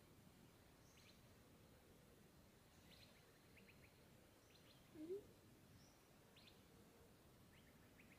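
Faint bird chirps: short high notes, often in twos or threes, recurring every second or so. One short rising call stands out about five seconds in.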